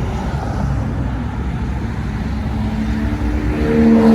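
A car engine runs with dense low-pitched noise. About two and a half seconds in, a steadier engine note comes in and gets louder toward the end as the car comes closer.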